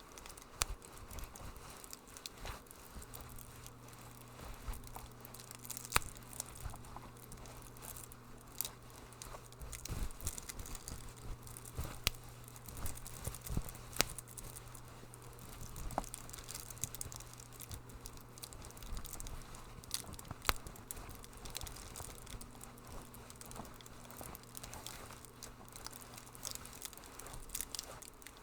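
Wood fire crackling in a fireplace: irregular sharp pops and snaps over a soft hiss, with a faint low hum through the middle.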